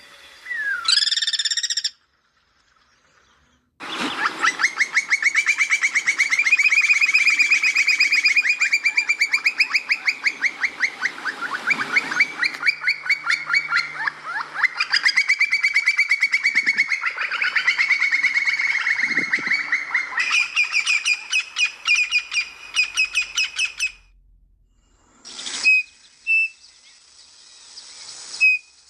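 A songbird singing: a short call, then long, fast trills that change pitch every few seconds, and a few single notes near the end.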